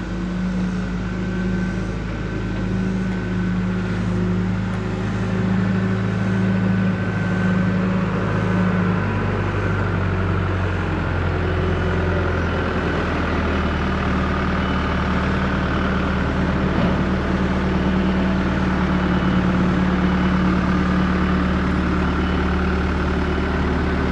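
Tractor engine running steadily, its note dropping lower about ten seconds in.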